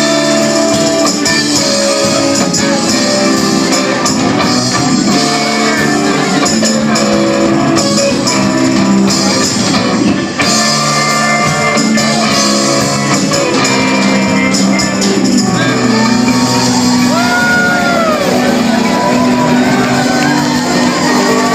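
A live band playing loudly in a large room, with shouted vocals over the instruments.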